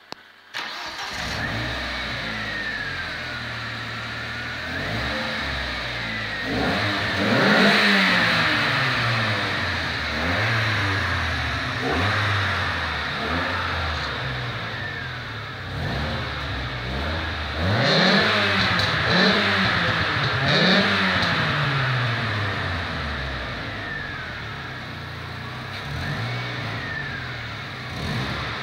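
Ford Escort RS2000's four-cylinder engine heard through its exhaust, starting about half a second in, then idling with repeated blips of the throttle, the revs rising and falling several times, loudest in two bursts of blips.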